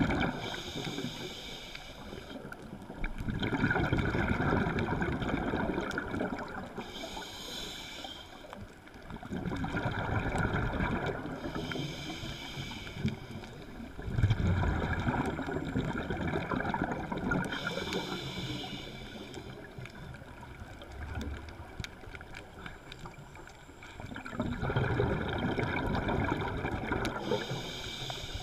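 Scuba diver breathing through a regulator, heard underwater: a short hiss on each inhale, then a louder rush of exhaled bubbles, in slow cycles about five seconds apart.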